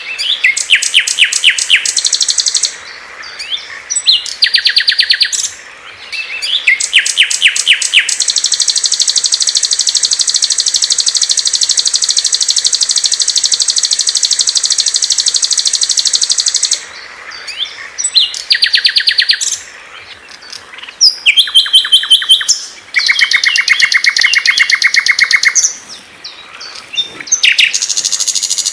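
Small songbirds singing in turn: rapid high trills and chattering phrases, with one long, even, high trill lasting about eight seconds in the middle.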